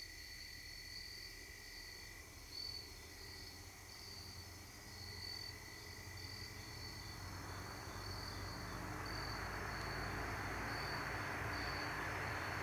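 Crickets chirping in a steady pulsing trill, while a passing truck's road noise and engine rumble swell in from about halfway through and become the loudest sound near the end.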